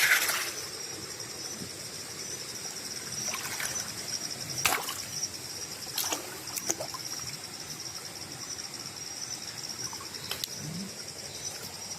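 Night insect chorus, crickets or katydids making a steady high trill, with a few short sharp knocks or splashes about a second in, near the middle and near the end.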